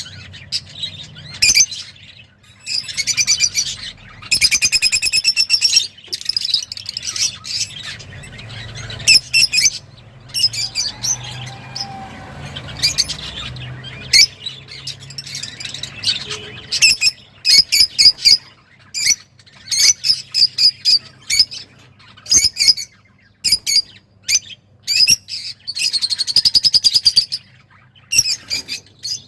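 Excited cage birds chirping and twittering in rapid flurries of high, sharp calls, with short pauses between the bursts.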